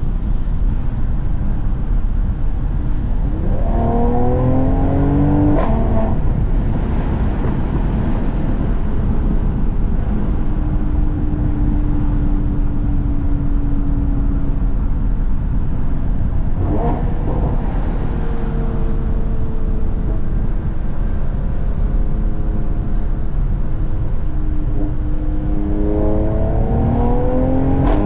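Mercedes-AMG C43 engine and exhaust over a constant rumble of road noise: the engine revs up a few seconds in, breaks off at a gearshift, then holds a steady, slowly falling note while cruising, shifts again about halfway through, and revs up once more near the end.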